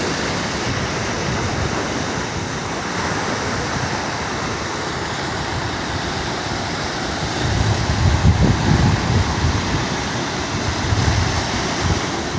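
Ocean surf washing in a steady hiss, with wind buffeting the microphone in low gusts from about halfway in.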